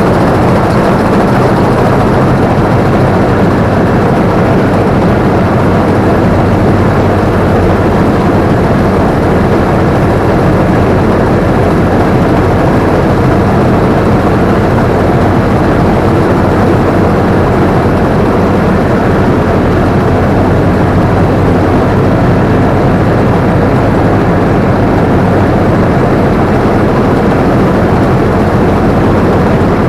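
Combine harvester running steadily at the operator's seat: a loud, continuous drone of the engine and threshing machinery.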